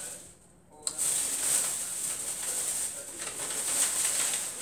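Mouth sounds of a person chewing a mouthful of shrimp egg foo young and rice, with soft low voice sounds and a steady hiss. The sound drops away briefly just after the start and comes back with a click about a second in.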